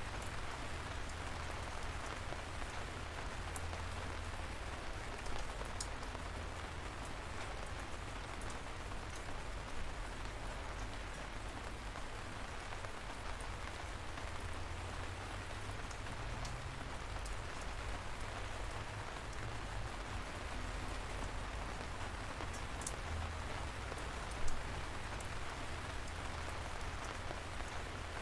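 Steady light rain falling, an even patter with scattered sharp drop ticks and a low rumble underneath; a few louder single drops stand out, the clearest about 24 seconds in.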